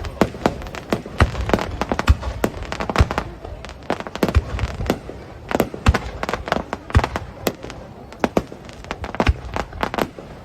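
Fireworks display: a rapid, irregular barrage of sharp bangs and crackles, some with a deep thud, thinning out somewhat after about seven seconds.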